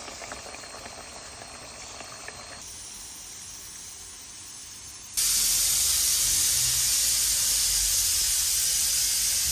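A faint, even hiss, then a much louder steady hiss that starts suddenly about five seconds in and cuts off abruptly at the end.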